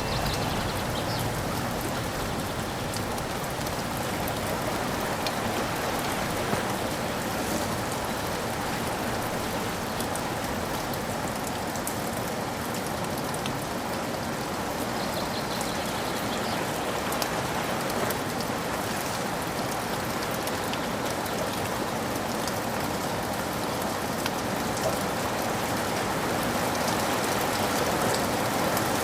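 Steady rain falling, an even wash of sound with scattered sharp drop ticks.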